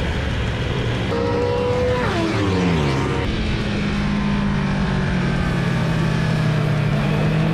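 Superbike engine running hard on a racetrack. Its pitch falls sharply about two seconds in, then holds steady and rises a little near the end.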